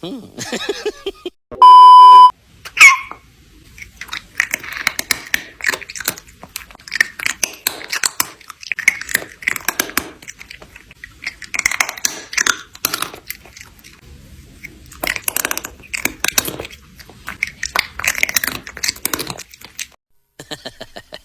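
A loud steady beep about two seconds in, then a short squeak, followed by a long run of crisp crunching clicks in bursts, like chewing on something crunchy.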